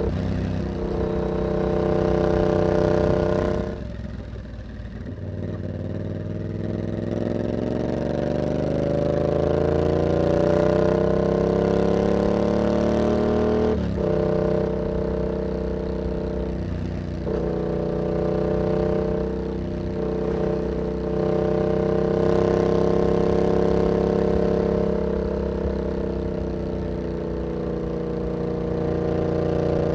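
Yamaha MT-07's parallel-twin engine running through an aftermarket carbon hexagon exhaust with its dB killer fitted, under way on the road. The note drops briefly off the throttle about four seconds in, then rises steadily in pitch as the bike accelerates, changes abruptly at a gear change about halfway through, and then holds at a fairly steady pitch with small throttle dips.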